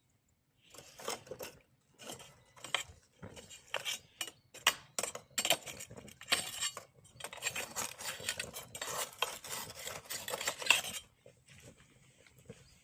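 Lumps of charcoal clinking and knocking as they are handled and set into a small Japanese charcoal grill. The separate clinks give way to a few seconds of continuous rattling that stops suddenly.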